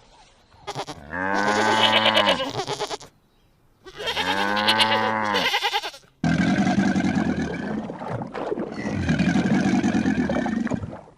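Animal calls: two drawn-out, pitched calls, each rising then falling, followed after a cut by a different, rougher and lower-pitched animal sound.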